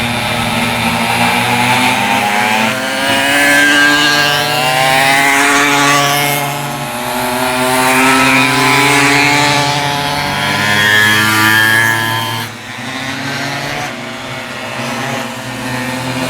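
Small two-stroke pocket bike engines running at high revs as several minimotos race past, their buzzing note rising and falling with throttle and gear changes. Around twelve seconds in the sound drops briefly quieter, then builds again.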